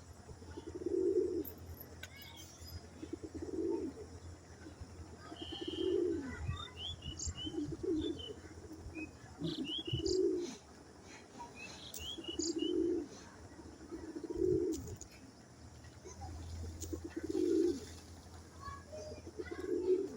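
Domestic pigeons cooing over and over, a low coo every two seconds or so, with short high chirps of small birds scattered in between.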